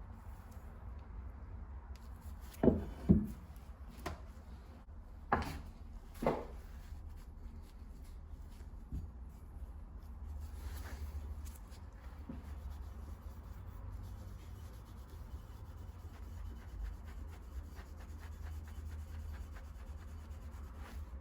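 Brass tool parts handled on a workbench: two pairs of sharp knocks in the first six seconds, then light, steady rubbing and scratching of hand work on the metal.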